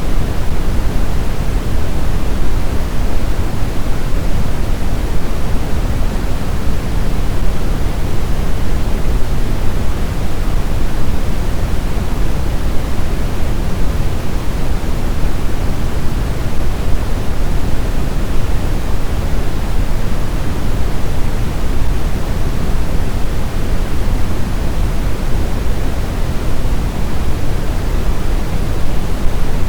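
Blizzard wind ambience: a steady, deep rushing noise with no gusts, howls or breaks.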